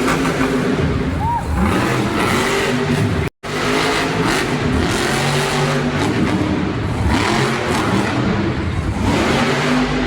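Monster truck's supercharged V8 engine revving up and down, loud, over the general roar of the arena. The sound cuts out completely for an instant about a third of the way in.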